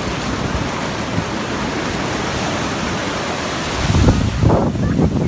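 Ocean surf washing in, a steady rushing hiss, with wind buffeting the microphone in heavy low gusts during the last second or so.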